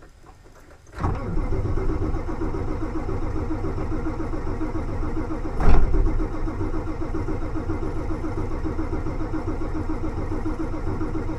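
Ford F-250 diesel engine being cranked by its starter in a cold start, turning over with an even pulsing rhythm without catching, after about a second of quiet. A sharp, louder burst about five and a half seconds in.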